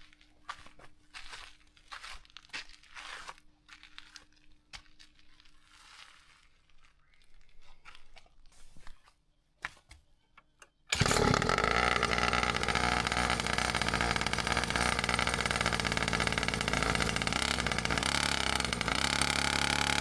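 Faint scattered clicks and rustles, then about eleven seconds in the pocket bike's small engine is suddenly heard running, loud and steady.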